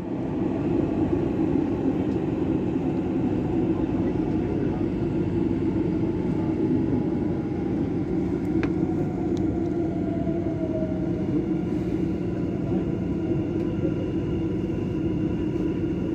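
Dubai Metro train running steadily, heard from inside the carriage: a constant rumble of wheels and running gear, with a faint falling whine about halfway through.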